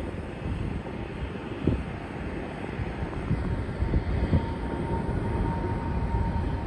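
Jet airliner's engines during takeoff, a steady rumble mixed with gusty wind on the microphone. A steady whine comes in a little after halfway.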